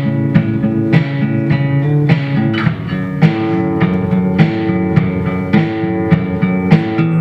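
Guitar being played: plucked notes and chords struck in a steady rhythm, about two a second.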